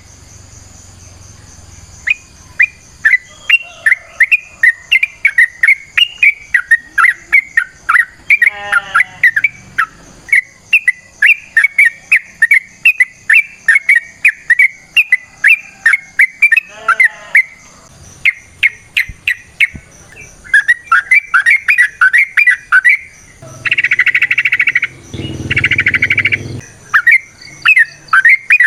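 Yellow-vented bulbul (trucukan) singing a long, loud run of quick, sharp chirping notes, about three a second, broken by short pauses. A couple of lower chattering phrases come in between, and there are harsh buzzy bursts a few seconds before the end.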